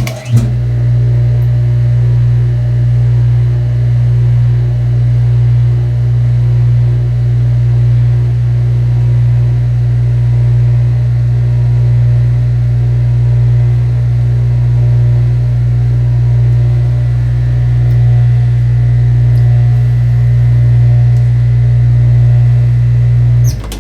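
Dishwasher's motor running with a steady low hum after being switched on, cutting off abruptly near the end.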